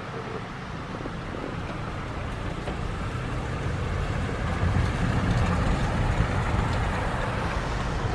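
Steady rumble of a car driving, growing slightly louder.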